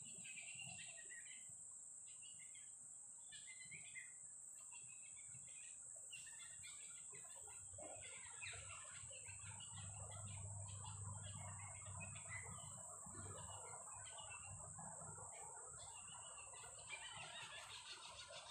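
Many birds chirping and calling in short, overlapping calls over a steady high-pitched insect drone, with soft rain pattering faintly. A low hum swells and fades midway.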